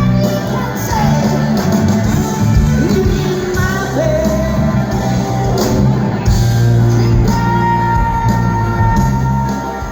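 Hard rock band playing live and loud, with guitars, bass and drums under a high, shouting male lead vocal that slides between notes and holds one long high note near the end.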